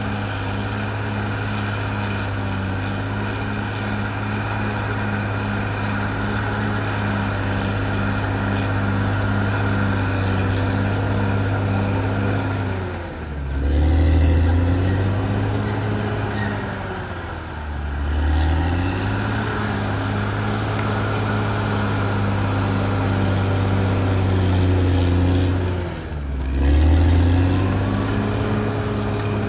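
CAT D6R XL bulldozer's diesel engine running hard and steadily. The engine note sags and then climbs back three times, about halfway through, a few seconds later, and near the end, as if it is loaded and recovering.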